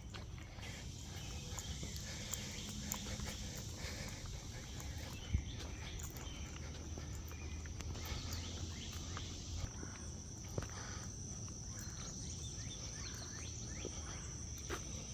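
Insects droning with a steady high-pitched buzz, which becomes one clear continuous tone about two-thirds of the way through, over a low rumble. A single sharp knock comes about five seconds in.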